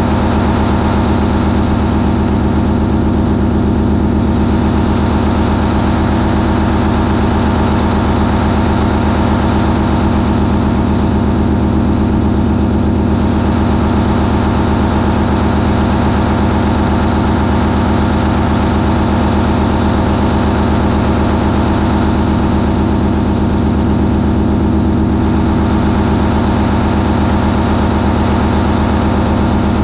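MAN 20V28/33D STC 20-cylinder V-type diesel, a ferry's main propulsion engine, running steadily at 980 RPM with no change in speed.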